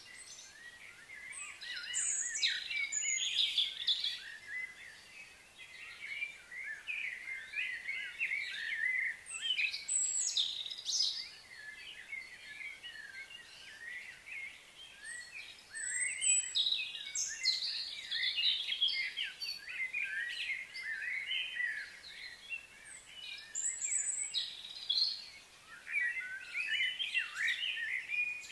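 Small birds chirping and twittering in a dense, overlapping chorus, coming in busy flurries every few seconds with quieter gaps between.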